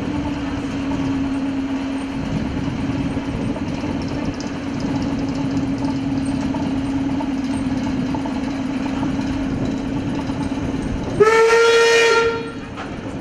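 Electric multiple-unit train rolling past with a steady hum. About 11 seconds in, a steam locomotive whistle blows once, loud and clear, for about a second and a half.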